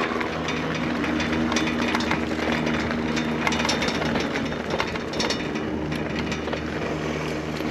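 Electric bike riding over rough gravel ground: tyres crackling on loose stones and the bike rattling, over a steady low hum.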